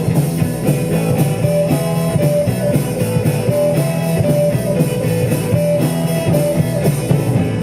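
Live rock band playing an instrumental break: a driving, repeated guitar and bass riff over a steady drum-kit beat, with no vocals.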